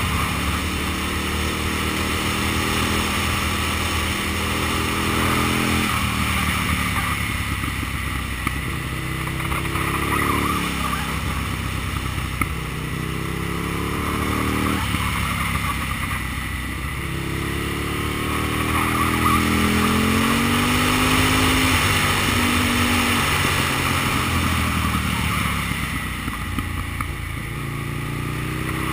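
Aprilia Tuono's 60-degree V-twin engine pulling the bike through a run of curves, its revs rising and falling with the throttle and dropping sharply twice, over a steady rush of wind.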